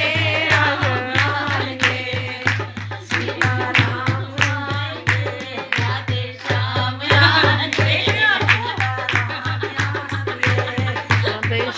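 A woman singing a Hindi bhajan (devotional song) over a fast, steady percussion beat with deep drum thumps.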